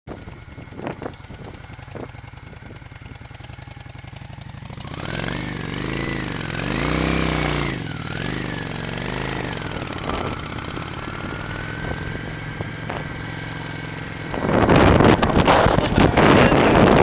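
Motorcycle engine running low at first, then revved up and down several times, then holding a steady pitch. Near the end it is drowned by a sudden loud rushing noise.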